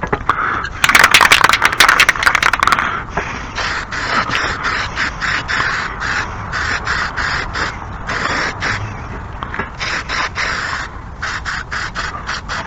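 Hand file rasping back and forth across the edge of a steel lawn mower blade to sharpen it, in steady strokes about two to three a second, with a faster, harsher run of strokes about a second in.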